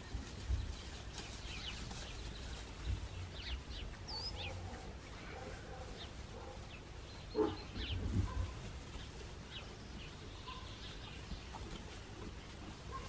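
Small birds chirping now and then, with low thumps and rustles, and one short low call about halfway through.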